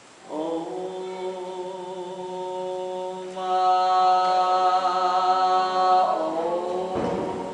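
A group of voices singing long held notes together without instruments, a sustained wordless chant. Several pitches sound at once, swelling louder about three seconds in and sliding to new notes around six seconds.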